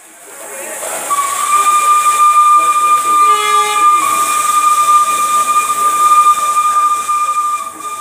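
Train horn sounding one long, steady blast over a loud hiss of air. A second, shorter tone joins it briefly about three seconds in.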